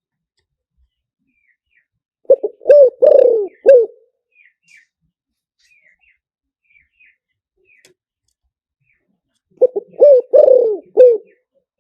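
Spotted dove cooing: two phrases of about five notes each, roughly seven seconds apart. Faint chirps of small birds sound between the phrases.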